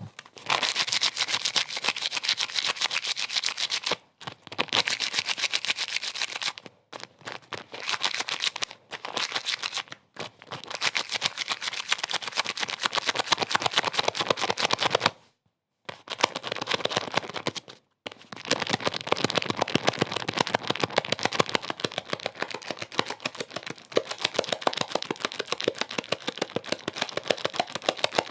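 Rapid, dense rattling clicks in runs of a few seconds, cut by short sudden silences.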